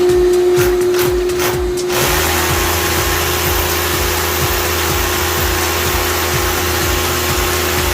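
A steady, whirring motor-driven machine starts about two seconds in and runs on evenly, over background music with a steady beat.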